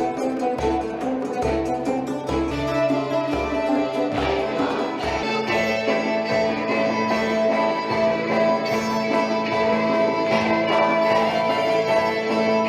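Medieval-style folk music from an ensemble with plucked and bowed strings. Regular low beats give way, about five seconds in, to a steady low drone under the melody.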